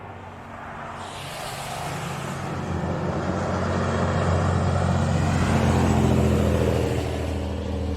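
A road vehicle's engine and tyre noise growing steadily louder over several seconds, with a steady low engine hum underneath.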